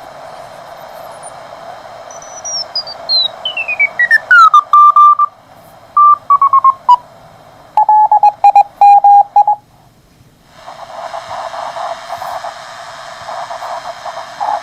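Regenerative shortwave receiver on the 30-meter amateur band, heard through its speaker: band hiss, then a whistling beat note that falls steadily in pitch as the receiver is tuned onto a loud Morse code (CW) signal. Keyed dits and dahs follow at a steady tone, which drops to a lower pitch partway through. Near the end the signal stops, there is a brief hush, and rougher hiss returns.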